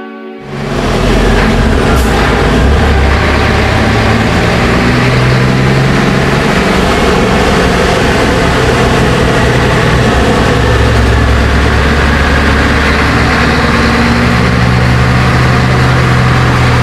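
Scania 124G truck's inline-six diesel engine running loud and steady, with a deep low rumble. It starts abruptly about half a second in.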